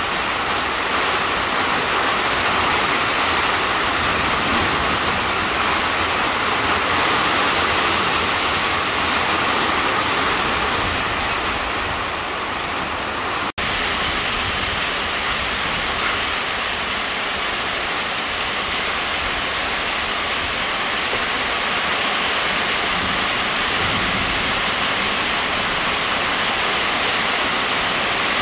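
Heavy rain pouring down on a corrugated-sheet roof, with water streaming off the roof edge: a loud, steady rush that breaks off for an instant about halfway through.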